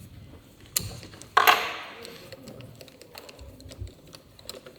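Hand work on small metal engine parts: scattered clicks and taps, with one louder metallic clatter about a second and a half in that rings briefly, as of a metal part or tool set down.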